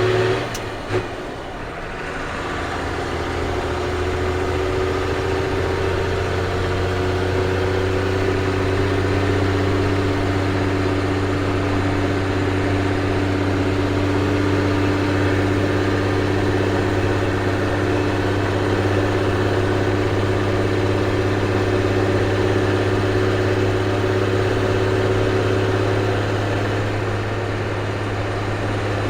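Ford CF7000's 6.6-litre Brazil inline-six diesel running as the truck drives along. The engine note dips briefly with a click about a second in, comes back up and holds steady, then eases off slightly near the end.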